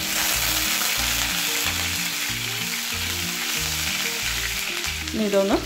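Crushed garlic dropped into hot oil in a frying pan: the sizzle jumps up at once as it goes in and then fries steadily, stirred with a spatula, with fenugreek seeds and ginger in the oil.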